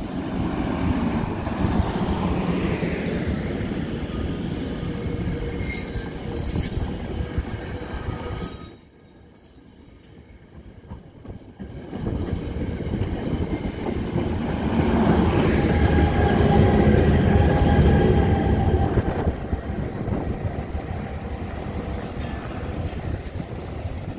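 NJ Transit passenger coaches rolling past close by: a heavy steel-wheel rumble on the rails, with clicking over the joints and thin wheel squeal. The sound drops away sharply for a few seconds near the middle, then the rumble comes back loudest.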